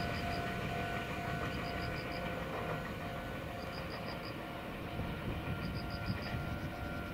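Low, steady rumble of a train at a railway station, with faint high chirps coming in groups of four or five about every two seconds.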